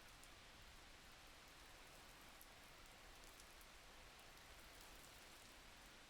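Faint, steady rain: an even hiss with scattered light ticks of individual drops.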